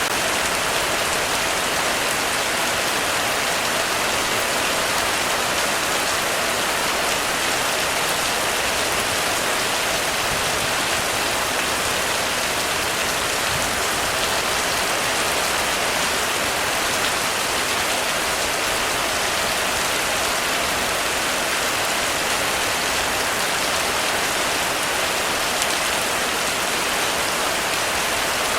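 Heavy rain falling steadily on a roof, a dense, even patter with no breaks or thunder.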